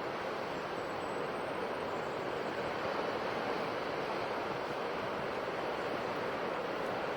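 Sea surf washing onto the shore: a steady rushing noise that swells slightly about three seconds in.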